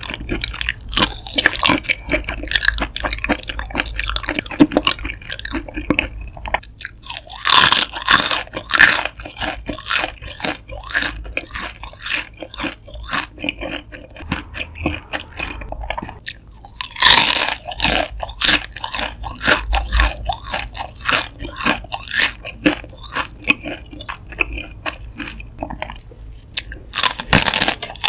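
Close-miked chewing and crunching of shrimp: continuous crunchy chewing with three louder spells of crunching, spaced roughly ten seconds apart.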